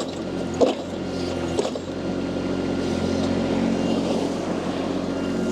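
Mini skid steer loader's engine running steadily, driving an angle sweeper attachment that is spinning fast at a high hydraulic flow setting. Two short knocks come in the first two seconds.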